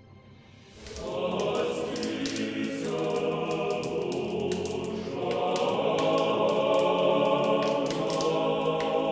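Choir singing a slow church chant, starting about a second in after a moment of near quiet.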